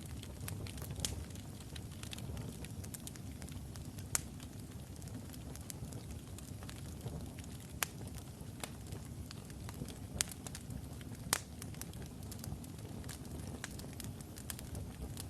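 Wood logs burning in a fireplace: a steady low rumble of the flames with scattered sharp crackles and pops, a few louder snaps at about 1, 4, 8, 10 and 11 seconds in.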